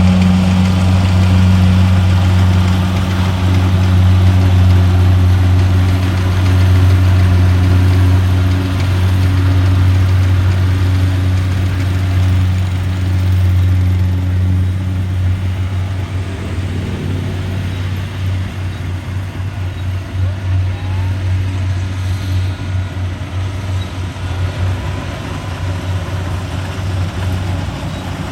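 Rice combine harvester's diesel engine running under load with a steady low drone; about halfway through the drone turns uneven and a little quieter.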